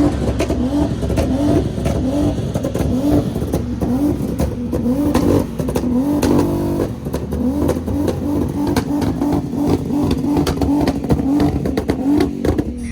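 Vehicle engine being revved hard over and over, its pitch sweeping up and falling back roughly twice a second, with a brief held rev a little past the middle.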